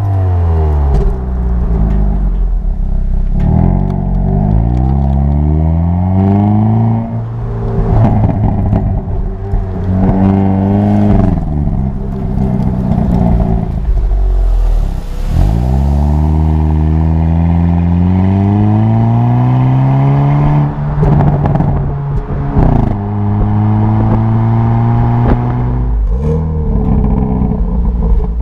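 2022 Hyundai Kona N's turbocharged 2.0-litre four-cylinder and its exhaust in N mode, accelerating hard. The pitch climbs repeatedly and drops sharply at each gear change, with a few short sharp cracks around the shifts.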